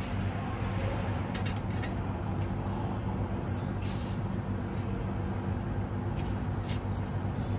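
Steady low mechanical hum from a running machine, with a few faint light clicks.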